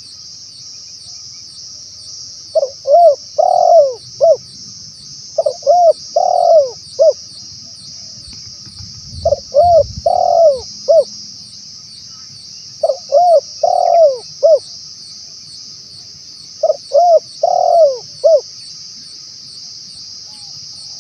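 Spotted dove cooing: five phrases of a few notes each (two short, one longer, one short), repeated every three to four seconds. A steady high insect chirring runs underneath.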